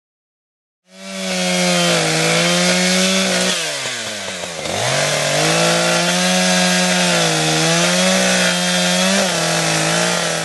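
Echo chainsaw running at full speed, cutting through hard eucalyptus wood. A little under four seconds in, the engine bogs down under the load, its pitch dropping steeply, then picks back up to full speed.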